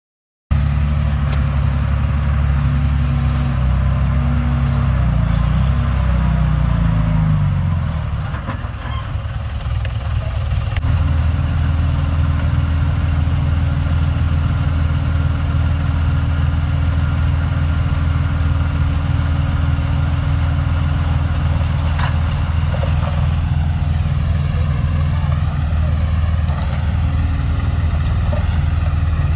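Heavy diesel engine of earthmoving equipment running under load. Its revs fall away about six to eight seconds in, then it settles to a steady, even running note from about eleven seconds on.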